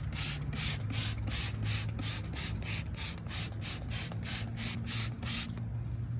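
Car being washed: a rhythmic swishing, about four strokes a second, that stops about five and a half seconds in, over a steady low hum.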